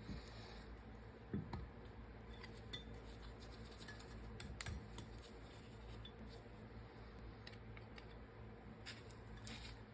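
Faint, scattered light metallic clicks and clinks of tools and small metal parts being handled during bearing work, a dozen or so irregular ticks over a steady low hum.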